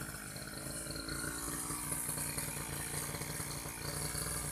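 Small engine of an old brush cutter (grass-cutting machine) running steadily.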